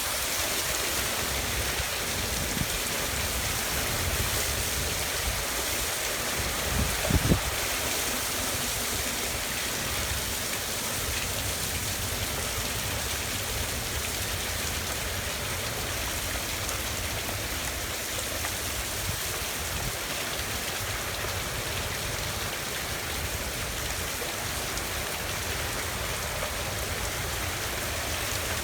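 Heavy thunderstorm rain pouring down steadily, with gusty wind rumbling on the microphone and a brief low thump about seven seconds in.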